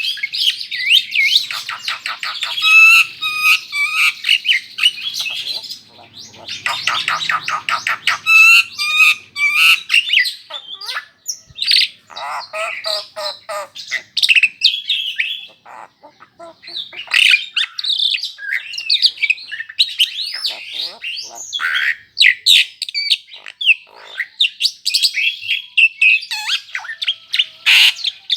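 Hybrid jalak (starling) singing a long, varied song of whistled glides, rapid trills and harsh chattering notes, with a couple of brief pauses.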